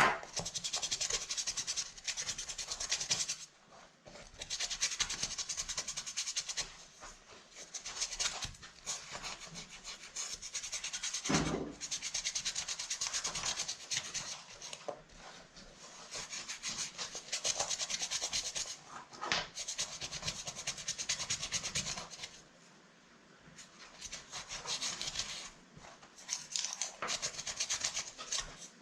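Rapid rubbing and scrubbing strokes on a muddy handbag during cleaning. They come in runs of a few seconds, broken by short pauses.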